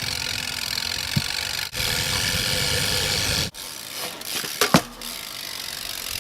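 BMX bike riding: steady rushing noise of tyres rolling on pavement and wind on the microphone, then a quieter stretch with a few sharp clicks and knocks from the bike.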